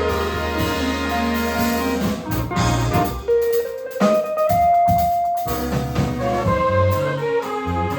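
Jazz band playing, with brass holding and moving through sustained notes over a drum kit.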